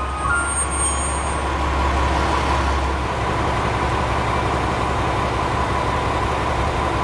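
JR West KiHa 47 diesel railcar's engine running, a steady low diesel drone with a thin steady whine over it.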